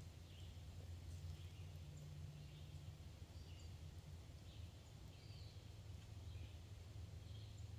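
Faint outdoor ambience: short bird chirps repeating about once a second over a steady low rumble.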